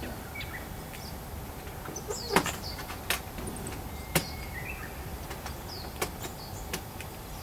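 Short, high bird chirps, several of them quick falling notes, scattered over a steady outdoor background, with a few sharp clicks in between, the loudest about two and a half seconds in.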